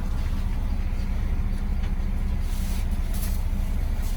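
Charter coach bus's engine running with a steady low drone, heard inside the passenger cabin, with a couple of short hisses about two and a half and three seconds in.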